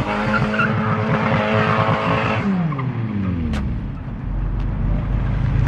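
Modified car's engine held at high revs, with tyre noise as it drifts. About two and a half seconds in, the engine note falls away, leaving a lower rumble.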